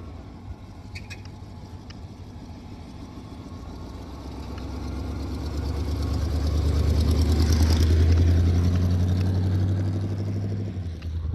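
Old Chevy truck's 350 small-block V8 running steadily, growing louder to a peak about eight seconds in and then easing slightly; the engine is running well.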